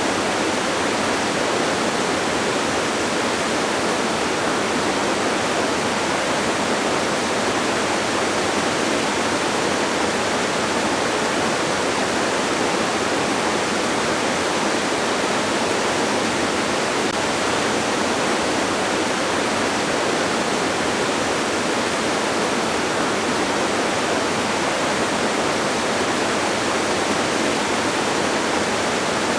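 Steady rushing of a distant waterfall: an even, unchanging hiss with little low rumble.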